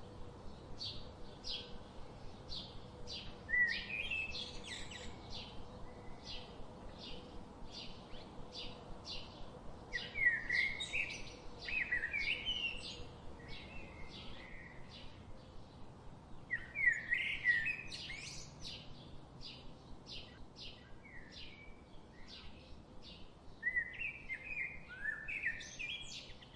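Songbirds singing: one bird repeats a short high chirp about two to three times a second, while louder warbling phrases from another bird break in four times. The sound cuts off abruptly at the end.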